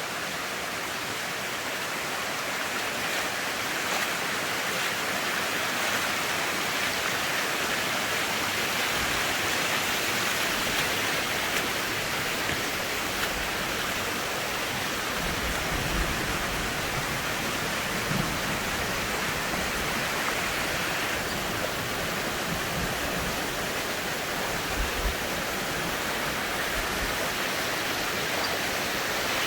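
A tall waterfall's falling water makes a steady, dense rush, with a few low rumbling bumps about halfway through and again later.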